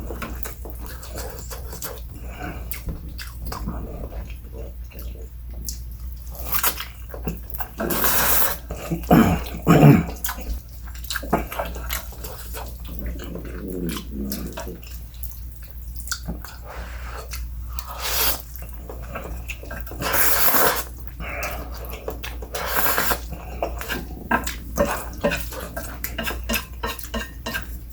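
Close-miked eating of instant stir-fried noodles: wet chewing and lip-smacking clicks, with a few louder slurps.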